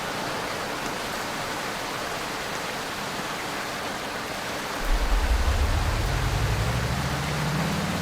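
Steady whooshing noise from a running ceiling fan. About five seconds in, a louder low hum starts suddenly and slowly climbs in pitch.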